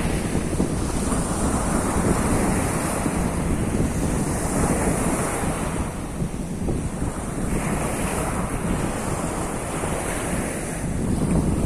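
Sea of Azov surf washing onto the shore in a continuous wash that eases a little midway and swells again near the end, with wind rumbling on the microphone.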